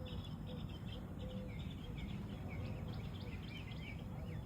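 Small songbirds chirping in many quick, short calls, over a steady low background rumble.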